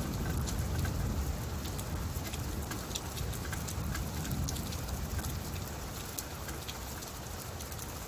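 Steady rain falling, with scattered drops pattering, under the low rumble of thunder that fades away over the first few seconds.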